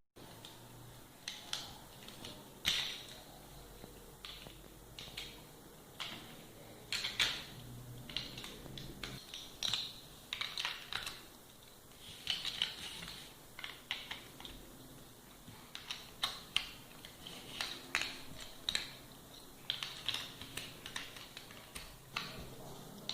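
Plastic building blocks clicking and clattering as pieces are handled and pressed together: irregular sharp clicks, some in quick clusters.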